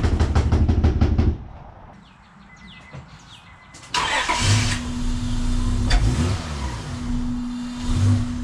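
Honda Accord's 3.0 V6 cranking fast on the starter for about a second, stopping, then catching abruptly about four seconds in and running.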